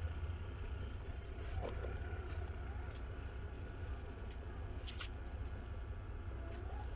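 Railway diesel engine idling with a steady low rumble, with a few faint clicks over it.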